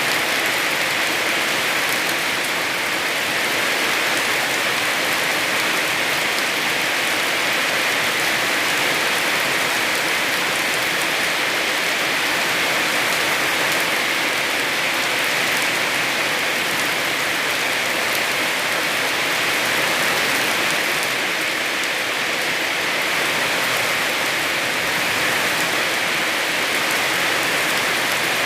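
Heavy rain falling steadily on a small house and the surrounding rice field, a dense, even hiss of drops with no let-up.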